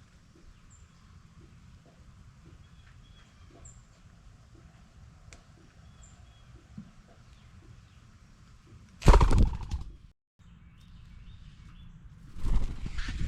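Small birds at a feeder giving faint, scattered short chirps. Two loud bursts of rushing noise about three seconds apart break in, the first about nine seconds in and cutting off sharply.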